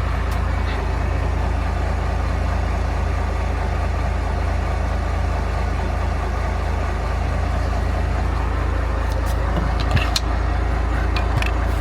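Truck engine idling steadily, with a couple of short metallic clicks near the end.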